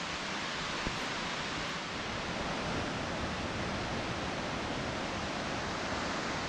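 Wallaman Falls, a 268 m waterfall, heard from the pool at its base: a steady, even rush of falling water and spray.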